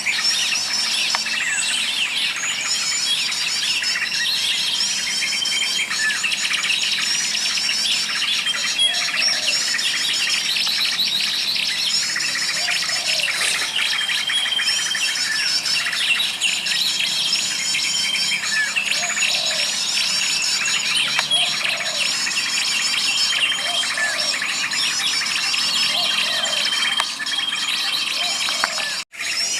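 A dense chorus of many small birds chirping, trilling and whistling over one another without a break, cutting out briefly near the end.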